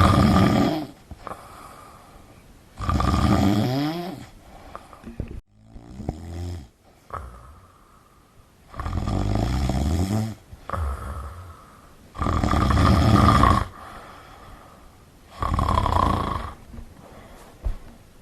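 A person snoring heavily. A loud, rasping snore comes roughly every three seconds, one per breath, with quieter breathing between.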